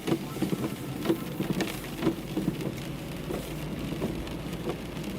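Rain falling on a car: a steady patter with irregular, sharper drops tapping on the body.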